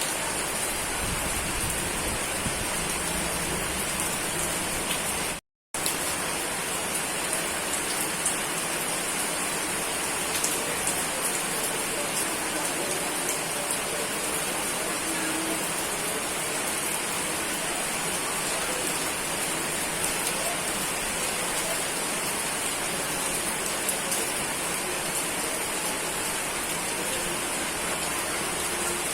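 Steady rain falling, an even hiss with faint drop ticks, cutting out completely for a split second about five and a half seconds in.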